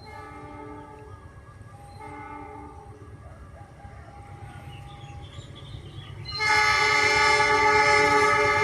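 Freight train locomotive horn: two short, fainter blasts, then a long, loud multi-tone blast starting about six seconds in, over the low rumble of the approaching train.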